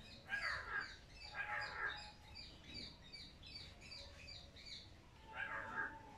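Birds calling: three loud, harsh, caw-like calls, two close together near the start and one near the end, over a quick run of short high chirps, about three a second, that stops a little before the last call.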